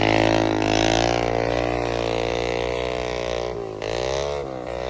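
Engine running and changing speed, its pitch wavering, then dipping twice near the end and picking back up.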